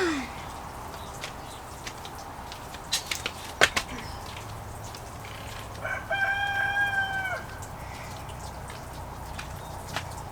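A rooster crows once, a flat held call of about a second and a half, about six seconds in. A few sharp knocks come a few seconds earlier.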